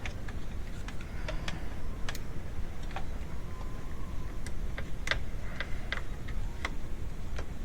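Irregular small plastic clicks and snaps, about a dozen, as wiring-harness retaining clips on a radiator fan module are worked loose by hand, over a low steady background rumble.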